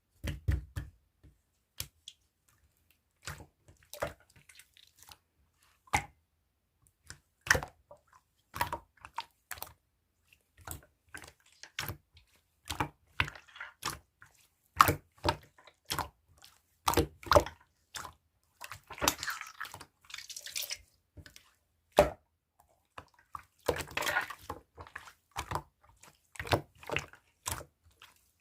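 Slime being squeezed and poked by hand: irregular wet squishes, clicks and small pops, with a couple of longer crackling stretches of trapped air.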